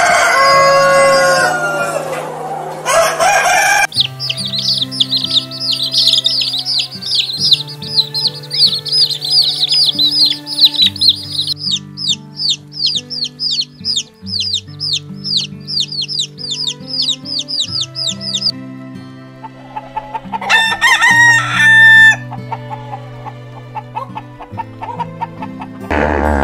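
A rooster crows, then a brood of chicks peeps rapidly and continuously for about fourteen seconds, with another short chicken call later on. Soft background music plays underneath. A deep hippopotamus grunt starts at the very end.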